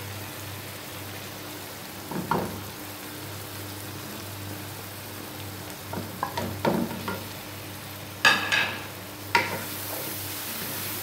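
Onion-tomato masala frying in oil in a wok, sizzling steadily while a wooden spoon stirs and scrapes through it. Several short sharp knocks and scrapes break in, the loudest about eight seconds in.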